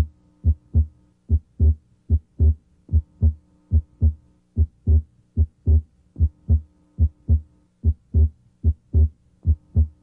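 Heart sounds heard through a stethoscope diaphragm at the left second interspace: a regular lub-dub, a little over one beat a second. The second sound is split abnormally wide, and the split comes and goes with deep breathing.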